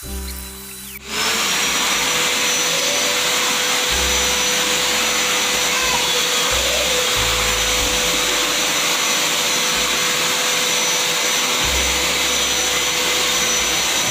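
Prestige wet-and-dry vacuum cleaner running during cleaning: a loud, steady rush of air with a steady whine, coming in about a second in.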